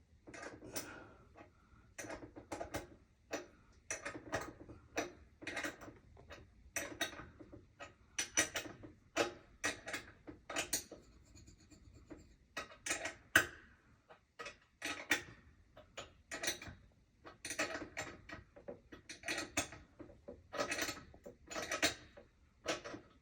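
Hands and tools working on a toilet's floor mounting: irregular scraping, clicking and knocking, with no steady rhythm.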